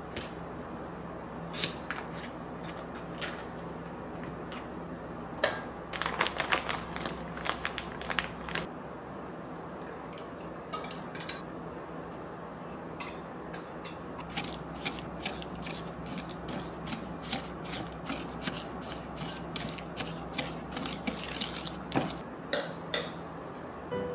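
Dishes and utensils clinking and clattering in a series of short, sharp knocks, over a steady low hum that stops about a third of the way in.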